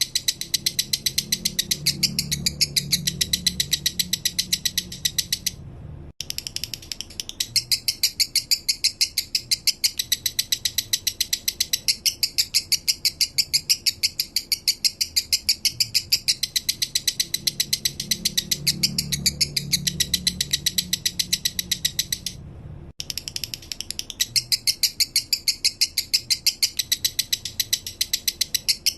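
Male lovebird singing its 'minor' song: a fast, high-pitched chatter of chirps with sharp peaks about three times a second, breaking off briefly twice.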